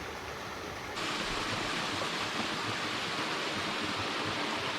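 Small waterfall splashing and rushing steadily, a continuous noise of falling water that turns suddenly louder and brighter about a second in.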